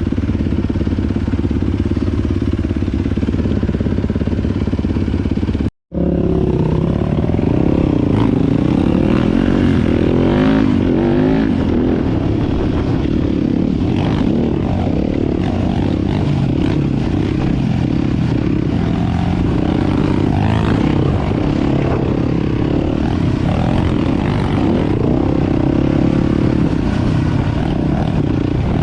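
Four-stroke dirt bike engine running under way on a trail, its pitch rising and falling as the throttle is opened and closed, with a brief cut to silence about six seconds in.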